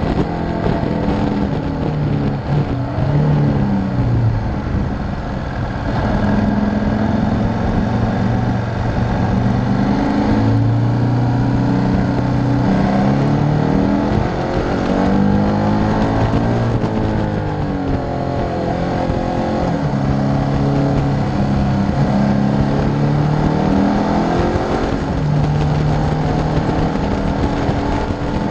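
KTM V-twin motorcycle engine heard from an onboard camera, its note climbing as it accelerates and dropping back again and again through the bends.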